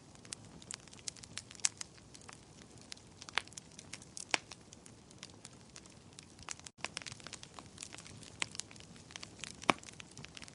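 Wood fire in a fireplace crackling: irregular sharp pops and snaps over a soft hiss, with a few louder pops. The sound breaks off for an instant about seven seconds in.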